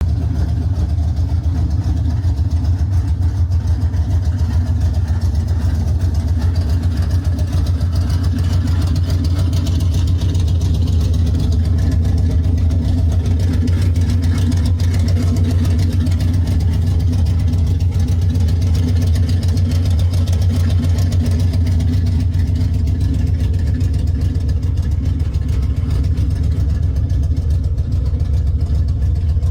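Ford 351 Cobra Jet V8 in a 1972 Mustang Mach 1 Q Code running steadily at idle, a deep, even engine note with no revving.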